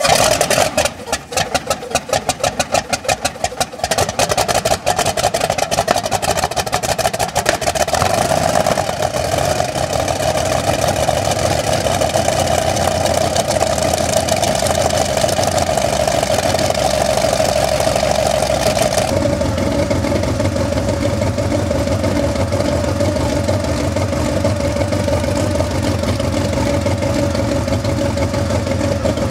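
Vedeneyev M-14V-26 nine-cylinder radial piston engine of a Kamov Ka-26 catching on a cold start: for the first few seconds it fires unevenly and misfires, then about eight seconds in it settles into steady running. The rough catch fits the fouled spark plugs and excess oil in the lower cylinders that made the engine hard to start. Around nineteen seconds the sound turns duller and steadier.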